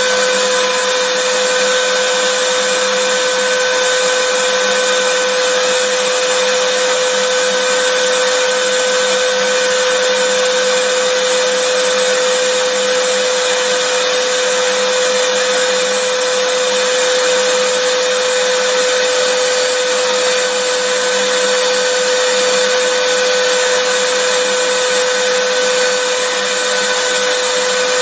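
Vacuum cleaner motor running steadily: a constant loud rushing hiss with a steady whine underneath.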